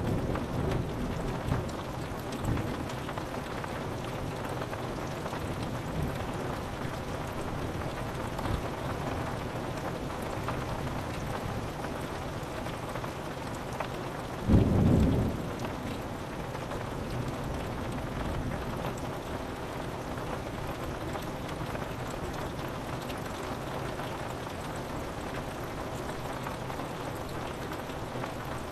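Steady rain falling on a window, with low thunder rumbles in the first few seconds and a sudden loud thunderclap about halfway through.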